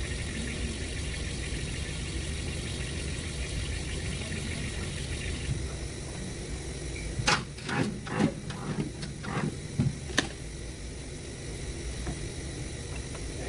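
Chevrolet Tahoe / GMC Yukon engine running steadily at idle; about halfway through the higher hiss drops away. From about two seconds later, a handful of sharp, irregular clicks and knocks sound over roughly three seconds.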